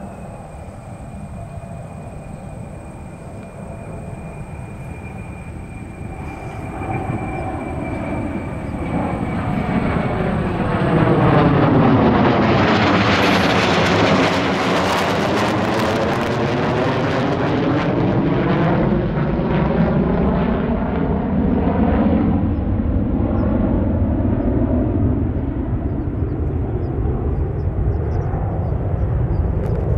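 B-2 Spirit stealth bomber's four turbofan jet engines on a flyby: a steady jet rush that swells as the aircraft approaches. It is loudest about halfway through, with a sweeping shift in tone as it passes, and stays loud until it cuts off abruptly at the end.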